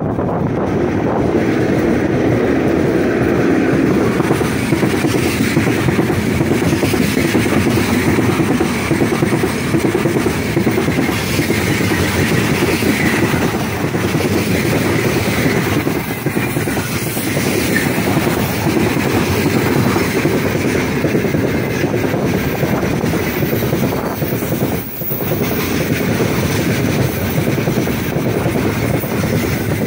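Heavy freight train rushing past close by: the 3ES5K 'Ermak' electric locomotive at the start, then a long string of open freight wagons. The wheels on the rails make a loud, steady noise, with a brief lull near the end.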